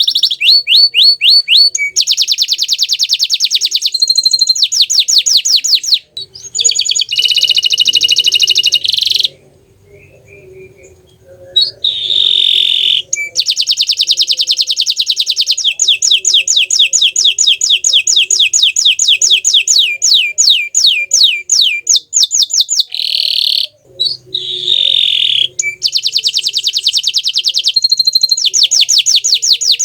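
A bottle-green canary singing in long, rapid trills of quickly repeated notes, one phrase after another, with a pause of about two seconds about a third of the way in.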